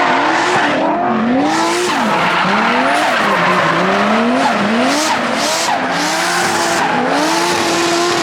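Drift cars sliding past at full throttle. The engines rev up and fall back again about once a second as the drivers work the throttle, over a continuous tyre screech that peaks about halfway through.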